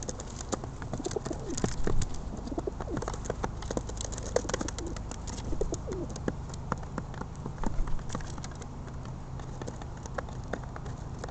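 Pigeons cooing, several low rising-and-falling coos in the first half or so, over a scatter of sharp taps and clicks.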